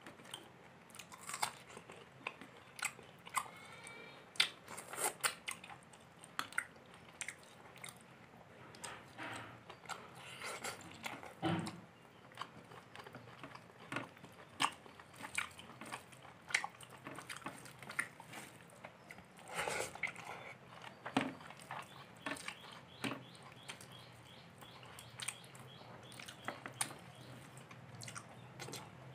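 Chewing and wet mouth smacks of someone eating pulao rice and chicken curry by hand, in an irregular run of short clicks and smacks.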